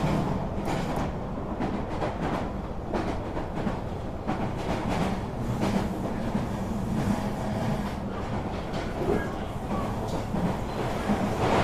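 Train running on its tracks: a steady low rumble with the clatter of the wheels over the rails.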